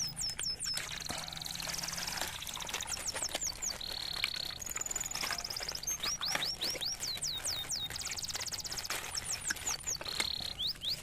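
Small birds chirping: repeated runs of quick, high, falling whistled notes and short trills, with a few brief held whistles.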